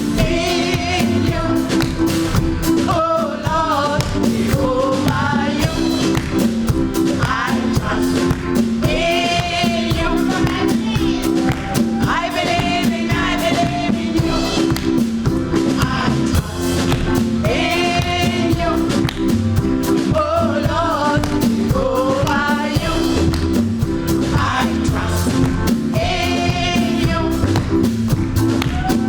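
Live gospel song: sung vocals over a band with drums and a steady beat.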